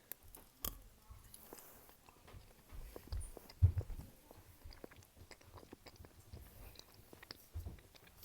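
Close-miked biting and chewing of a pepperoni stick. A sharp snap comes in the first second, followed by irregular chewing with small clicks and low mouth thumps, the loudest a few seconds in.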